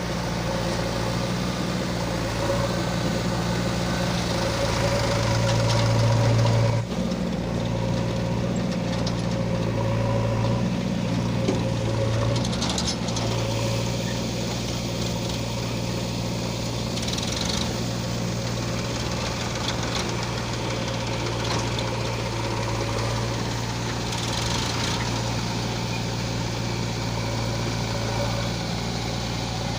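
Heavy diesel engine of an earth-moving machine running steadily. It grows louder for a few seconds and briefly breaks off about seven seconds in, then carries on.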